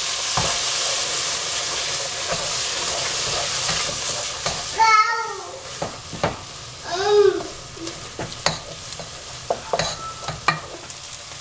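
Pea and potato masala sizzling in a nonstick pot as it is stirred with a wooden spoon, just after a splash of water has been added. The sizzle is loudest for the first four or five seconds, then dies down, with a few spoon knocks against the pot. Two short wavering pitched sounds come about five and seven seconds in.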